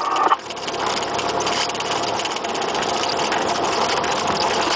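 Cessna 172R's four-cylinder Lycoming engine and propeller running steadily in flight, a fine rapid pulsing in the drone; a radio transmission cuts off just at the start.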